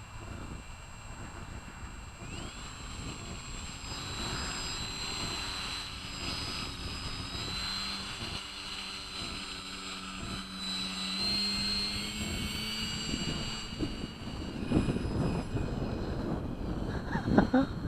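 Radio-controlled model plane's nitro glow engine running with a high-pitched buzz, its pitch stepping up and down a few times as the throttle is changed. Wind rumbles on the microphone, with a few thumps near the end.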